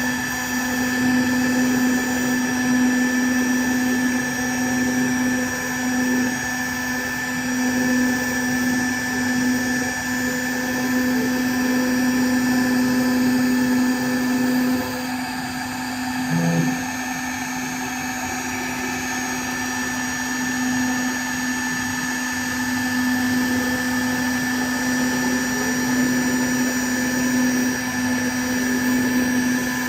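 CNC router spindle running with a steady whine while milling an inlay in acacia wood. The sound swells and eases slightly as the cut goes on, drops a little about halfway through, and gives a short low blip soon after.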